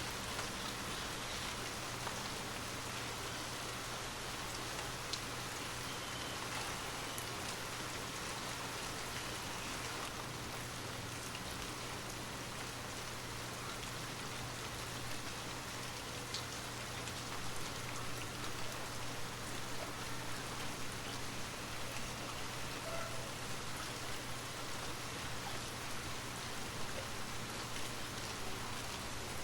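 Steady rain falling, an even hiss with scattered individual drops ticking, a little more uneven in the second half.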